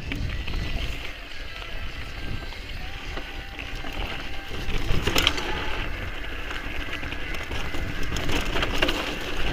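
Mountain bike riding over a rough, rocky trail: a continuous rattly rumble of tyres and bike over the ground, with many small clicks and one sharp knock about five seconds in.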